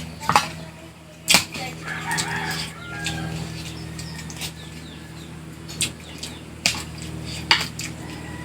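Close-up eating sounds: several sharp, brief smacks and clicks, about five in all, over a low steady hum.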